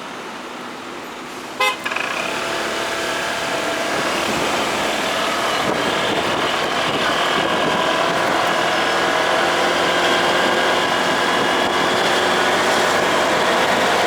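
A short horn beep about two seconds in, then steady motorcycle riding noise, engine and rushing air, gradually getting louder.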